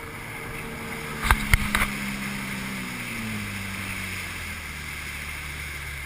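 Jet ski engine running with its pitch falling steadily as it throttles down, over wind noise. A few sharp knocks come close together about a second and a half in.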